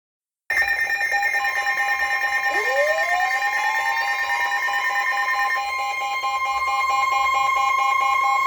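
NOAA Weather Radio alert tones: chopped, buzzing data tones under a steady, high-pitched warning alarm tone that comes in about a second in and holds. A second tone slides upward to join it between about two and a half and five seconds in.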